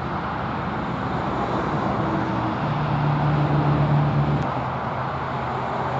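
Road traffic noise: a motor vehicle's engine hum builds to its loudest about four seconds in and then eases off.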